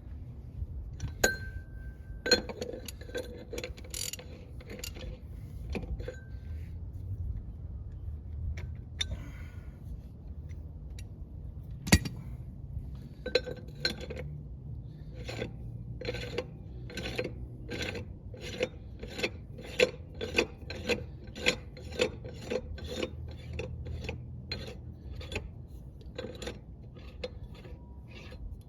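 Metal-on-metal clinking and tapping on a truck wheel hub being taken apart: scattered clinks, one sharp clank about halfway, then a steady run of ringing taps about two a second.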